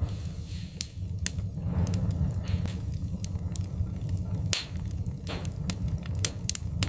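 Wood fire crackling: irregular sharp pops and snaps over a steady low rumble, with a few soft hissing puffs and a small cluster of snaps a little after six seconds in.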